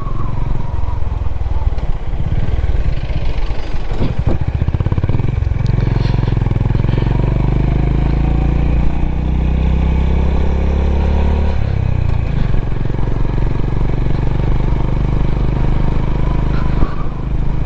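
Honda H'Ness CB350's single-cylinder engine running under way. Its note climbs steadily for several seconds from about a third of the way in, then drops suddenly about two-thirds through.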